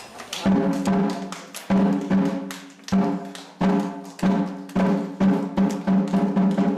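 Korean pungmul percussion playing: drum strokes that ring out with a low pitched tone, starting about half a second in and coming faster and closer together toward the end.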